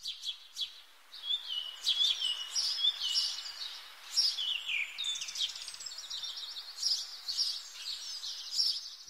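Songbirds chirping and trilling, many quick high calls overlapping throughout, over a soft outdoor hiss.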